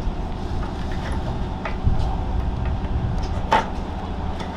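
Steady low mechanical hum of workshop machinery, with a few sharp knocks, the loudest about three and a half seconds in.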